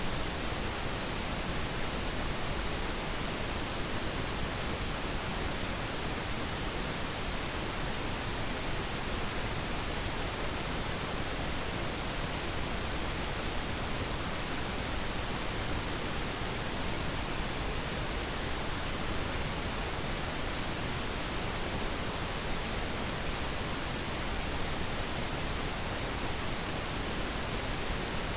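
Steady pink noise: an even, unchanging hiss over the whole range.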